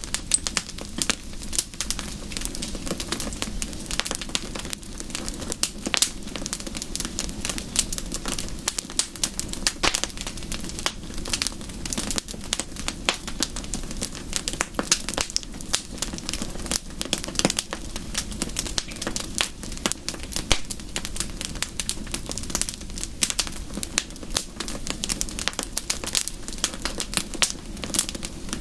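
Wood fire crackling: a dense, irregular run of sharp pops and snaps over a steady low rush.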